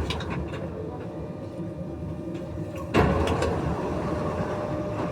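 Inside an NS-93 metro car at a station: steady hum and rumble of the train, with a few light clicks, then a sudden loud clunk and rush of noise about three seconds in from the car's sliding doors.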